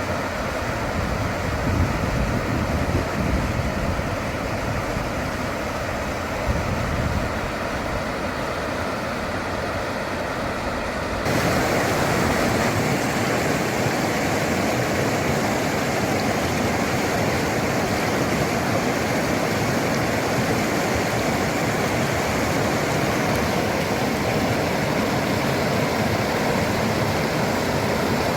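Steady low rumble of a car driving on the road. About eleven seconds in it switches abruptly to a louder, even rushing noise that holds steady.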